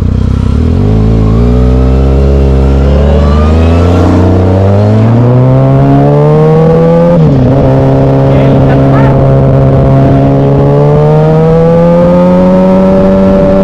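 Motorcycle engine accelerating, its pitch rising steadily. About seven seconds in it drops suddenly with a gear change, then climbs again more slowly and holds steady near the end.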